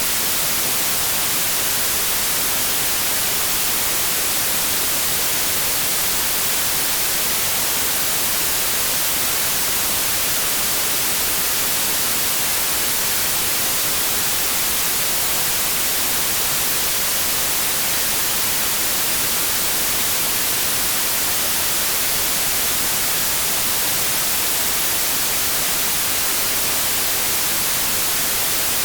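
Steady synthetic white noise: an even, unbroken hiss, strongest in the highs, with no change in level.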